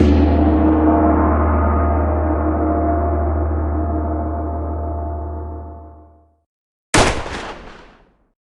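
A single struck, deep ringing sound that starts suddenly and fades away over about six seconds. About seven seconds in comes a short, sharp, hissy hit that dies away within a second.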